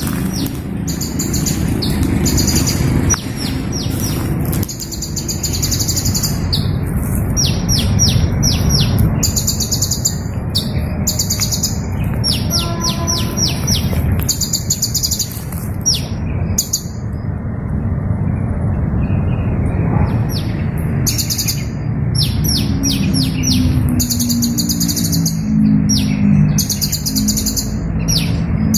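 Hummingbirds chirping: repeated high, squeaky chirps and quick stuttering twitters, with a short pause about two-thirds of the way through, over a steady low rumble.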